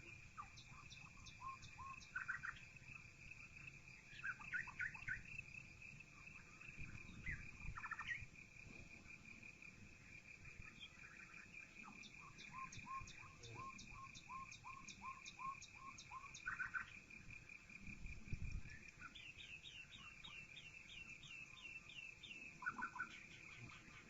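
Faint evening birdsong: several birds give repeated chirps and quick trilled phrases over a steady high-pitched drone.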